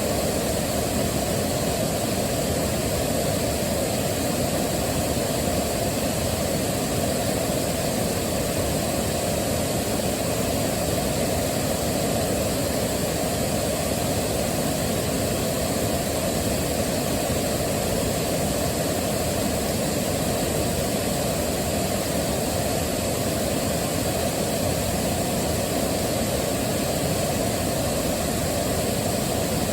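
Waterfall: a steady, low rush of falling water, even and unbroken throughout.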